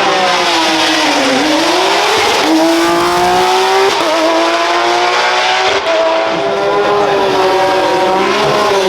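Hill-climb race car's engine under hard acceleration from the start line. The engine note dips, then climbs and steps in pitch several times as the car pulls away.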